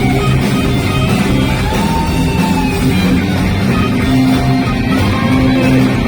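Live rock band playing, with electric guitar to the fore and a note that bends in pitch in the first half.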